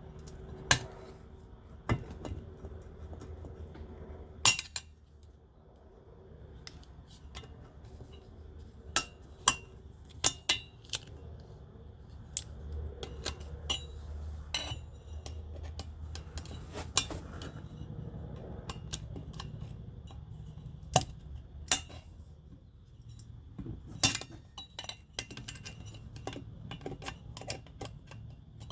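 Metal hand tools clinking and tapping against metal engine parts in a series of irregular sharp clicks, with low handling noise between them, while valve stem seals are being worked out by hand.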